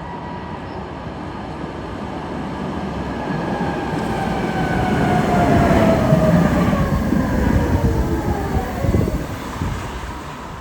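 A Tatra tram running by, its wheels rumbling on the rails. The sound grows to its loudest about six seconds in and then fades, while the tram's motor whine falls steadily in pitch.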